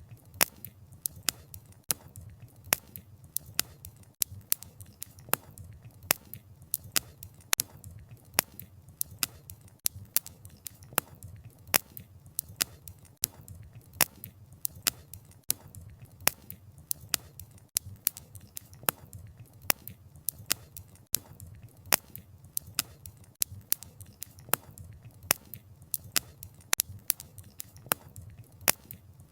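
Wood fire crackling: sharp, irregular pops and snaps from the burning logs, several a second, over a low steady rumble of the flames.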